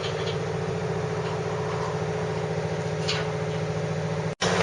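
A steady, engine-like machine hum that cuts out abruptly for a split second near the end.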